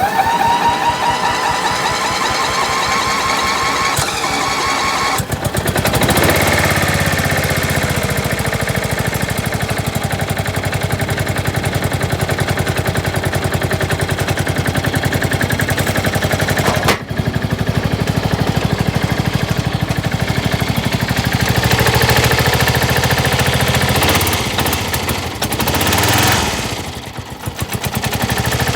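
Cold start of a 1979 Simplicity riding mower's Briggs & Stratton engine: the electric starter cranks with a whine for about five seconds, then the engine catches and settles into a steady, rhythmic run.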